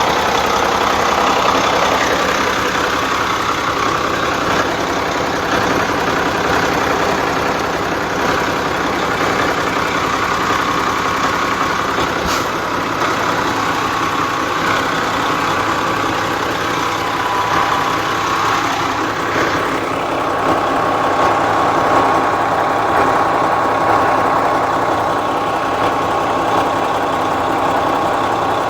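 Hino 700 truck's E13C inline-six diesel engine idling steadily. It keeps running on its own after a replacement high-pressure fuel pump cured a crank-but-no-start.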